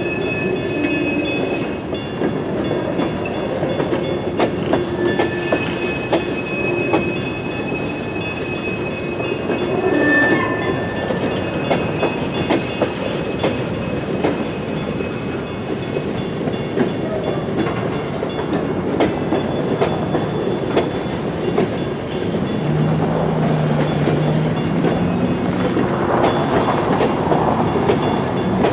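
Coal hopper cars of a long freight train rolling past: a steady rumble with clickety-clack as the wheels cross rail joints, and thin high wheel squeals that come and go. About two-thirds of the way through it grows louder and a low hum joins in briefly.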